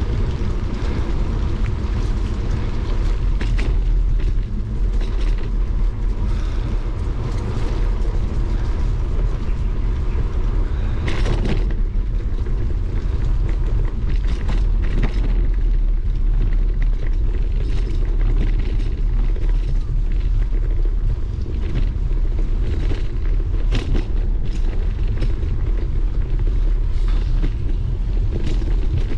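Bicycle ride on a wet road: a steady low rumble with scattered clicks and rattles from the bike, and a louder burst about eleven seconds in.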